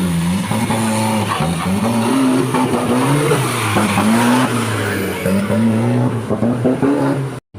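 An off-road 4x4's engine revving up and down over and over under load, its pitch climbing and dropping every second or so. The sound cuts off suddenly near the end.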